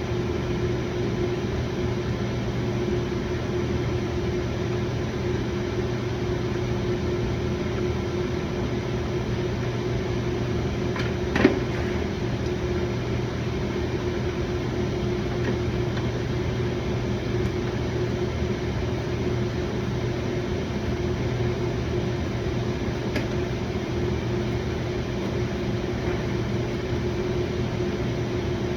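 Steady machine hum with a low drone and a fixed tone that never changes, and a single sharp knock about eleven seconds in.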